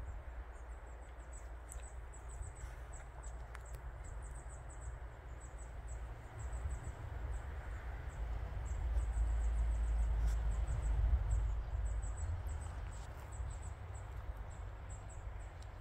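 Low wind rumble on the microphone, swelling in the middle and then easing, with many faint, high, short chirps repeating throughout.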